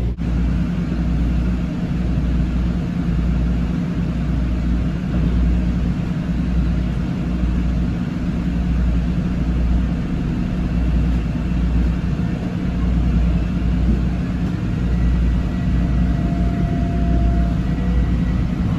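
Metro-North M7 electric commuter train running, heard from inside the car: a steady, pulsing low rumble of wheels and running gear on the track. A faint steady whine comes in near the end.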